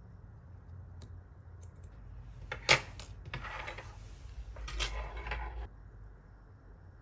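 Fly-tying tools and materials handled on a bench: a sharp metallic click, then a few seconds of rustling and scraping that stops abruptly.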